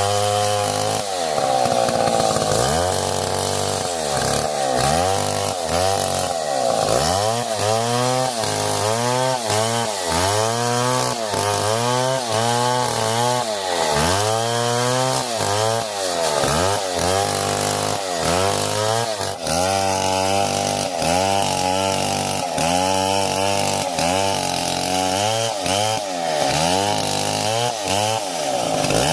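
Two-stroke chainsaw running at high revs, its pitch dipping and rising again over and over, roughly once a second, as it works through wood.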